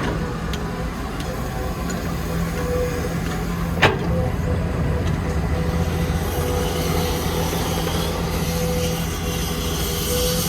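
Heavy construction machine's diesel engine running steadily, with one sharp metallic knock about four seconds in and a rising hiss of scraping or rushing noise in the second half.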